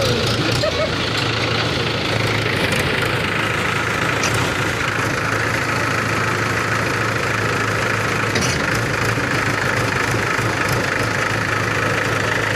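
Mahindra 375 DI tractor's three-cylinder diesel engine running steadily.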